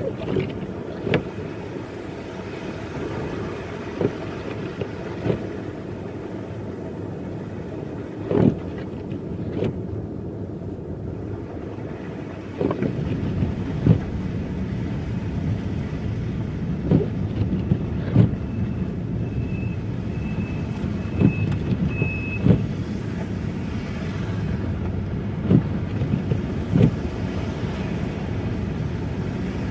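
A car driving on snowy streets: a steady low road-and-engine rumble, with scattered short knocks, growing louder about twelve seconds in. Near two-thirds of the way through, four short high beeps sound in a row.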